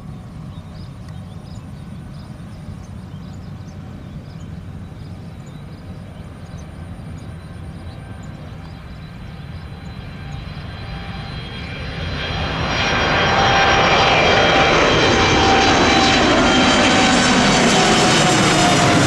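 Jet airliner passing close: after a low distant rumble, the engine noise swells to loud about twelve seconds in, and its whining tones slide down in pitch as the aircraft goes past.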